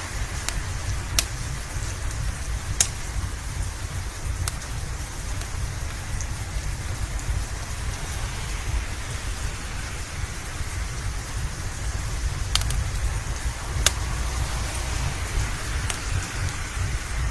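Steady rain with a low rumble underneath, and a few sharp pops from a crackling wood fire scattered through, the loudest about 1, 3 and 14 seconds in.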